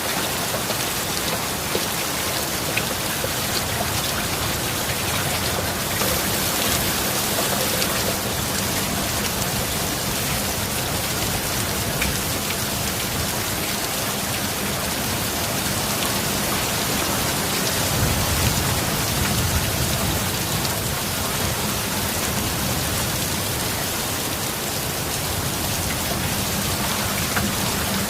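Steady heavy rain falling, with scattered individual drop patters, and a brief low rumble about two-thirds of the way through.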